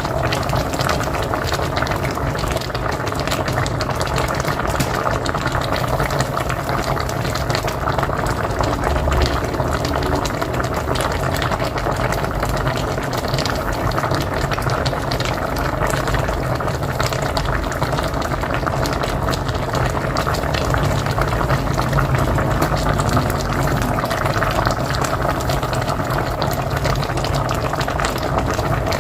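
A pot of mocotó (cow's foot) boiling steadily: a continuous bubbling made of many small pops, unchanging throughout.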